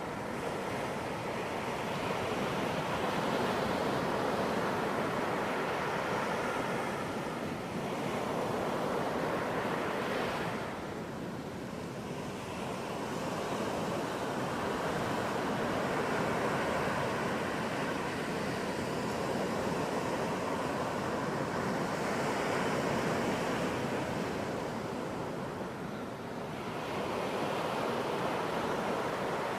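Ocean surf on a beach: waves breaking and washing in as a continuous rushing noise that swells and eases every several seconds.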